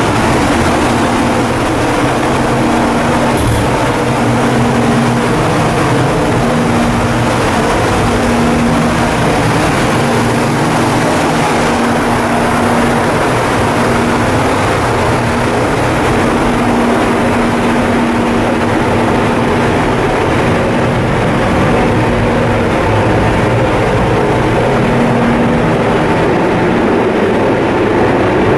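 A coastal cargo ship's main diesel engine running steadily under way on its sea trial. It makes a loud, constant din with a hum that swells and fades every couple of seconds.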